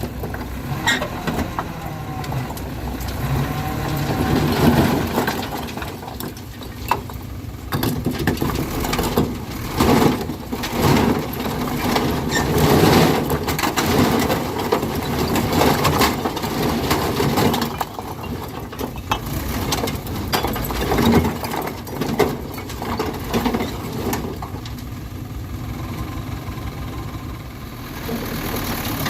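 Dump truck engine running, with irregular knocks and rattles over it.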